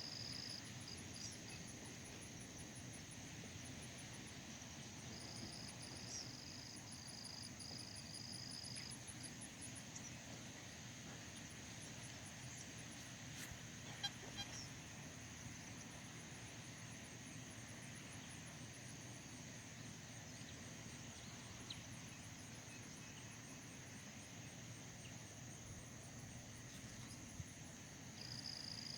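Insects chirping and trilling: a steady high drone under a fast, even pulsing chirp, with louder buzzing trills at the start, for a few seconds from about five seconds in, and again near the end.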